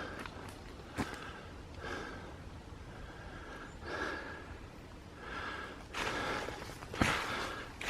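A person breathing hard while climbing a steep woodland slope, audible breaths coming about once a second, with occasional snaps and crunches of footsteps on the forest floor.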